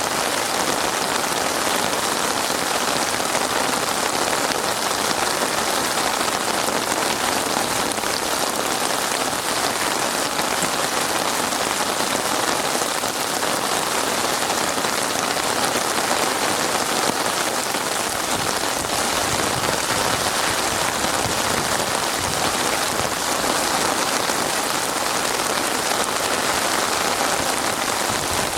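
Heavy rain falling steadily and evenly, a dense hiss of drops on surfaces.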